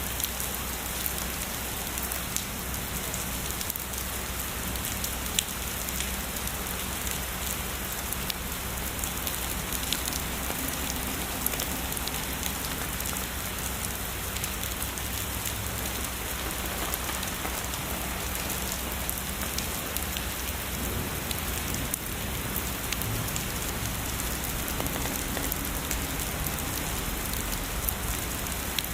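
Heavy rain falling steadily, with many sharp individual drop hits ticking through the constant wash.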